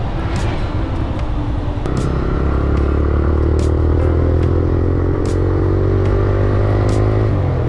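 TVS Raider's 125 cc single-cylinder engine and exhaust pulling under throttle: the revs climb steadily for several seconds, then drop suddenly near the end as the throttle is eased or a gear is changed.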